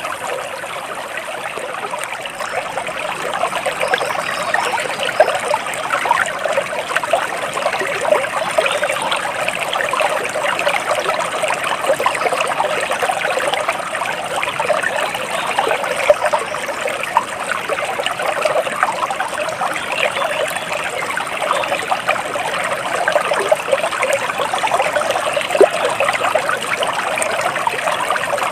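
Stream water flowing and trickling steadily, a dense continuous babble.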